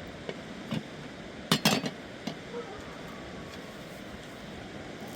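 Dishes and utensils clinking and knocking a few times, the loudest cluster about a second and a half in, over a steady rushing background.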